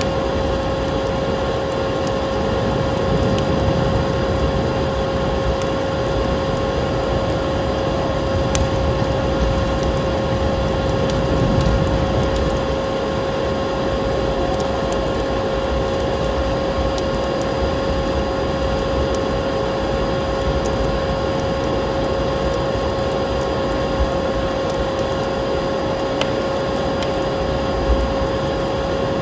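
Steady drone of a vacuum cleaner motor with a fixed hum, mixed with the light, scattered crackles of a wood fire.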